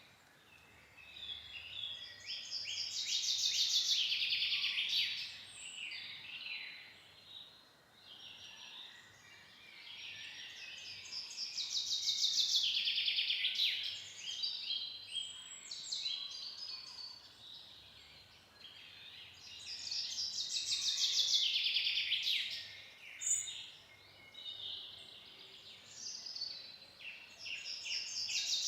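A songbird singing: a rapid trilled phrase about three seconds long that falls in pitch, repeated about every nine seconds, with fainter calls between the phrases.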